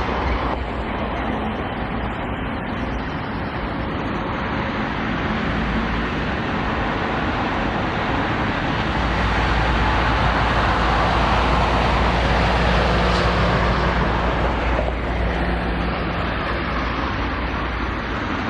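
Jet noise from an Airbus A350-900's twin Rolls-Royce Trent XWB turbofans at takeoff power as the airliner climbs away: a steady rushing roar that grows a little louder in the middle and eases toward the end.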